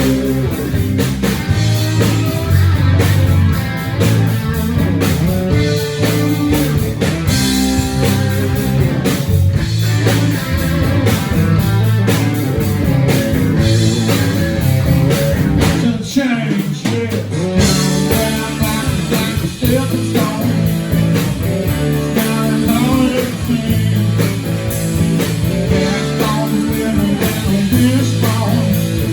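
Live rock band playing an instrumental passage, with electric guitar over bass and drums; the low end drops out for a moment about halfway through.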